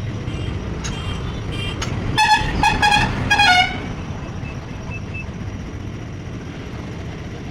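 A vehicle horn honks four short times in quick succession about two seconds in, the last toot sagging in pitch, over a steady low rumble.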